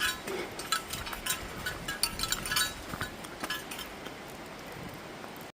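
Bear bells jingling irregularly with the wearer's steps, the strikes thinning out after about three and a half seconds, over a steady hiss of rain. The sound cuts off abruptly just before the end.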